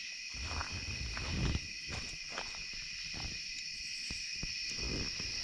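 Steady chorus of night insects, crickets by their sound, with scattered sharp clicks and pops, likely a campfire crackling.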